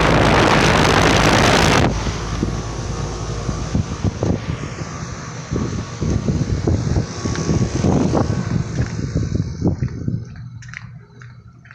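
Carrier Comfort 13 heat pump outdoor unit running. For about the first two seconds its condenser fan gives a loud rush of air. After that comes a steady low hum with scattered knocks and rustles, fading away near the end.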